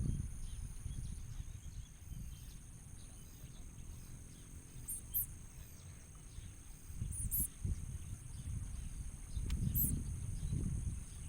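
Bar-winged prinias calling: three brief, very high chirps about five, seven and ten seconds in. Under them run a low rumble with thumps and a steady high whine.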